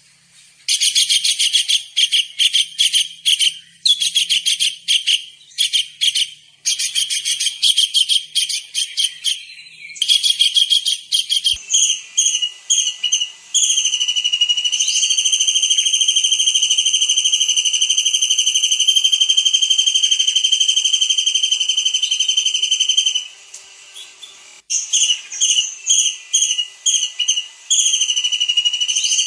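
A small kingfisher (tengkek udang) calling vigorously: rapid runs of shrill, high whistled notes for about ten seconds, then one long unbroken high note held for about nine seconds, then rapid notes again near the end.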